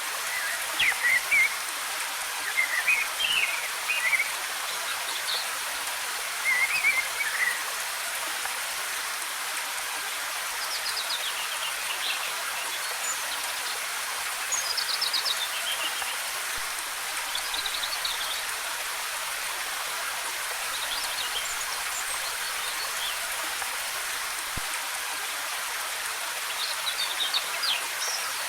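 Steady rush of a waterfall, with forest birds chirping in short, quick phrases every few seconds over it.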